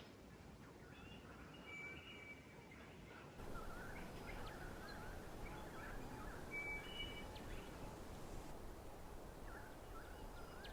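Faint birdsong: scattered short whistled notes and wavering chirps from several birds over a light background hiss.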